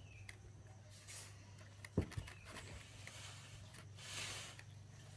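Low steady hum in a small room, with one sharp knock about two seconds in and a short soft rustle a little after four seconds.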